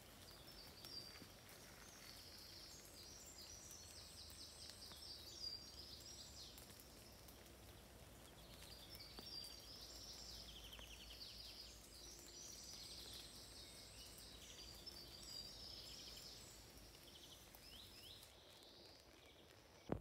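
Faint birdsong from several small birds: high, quick twitters and trills that overlap one another, falling away near the end.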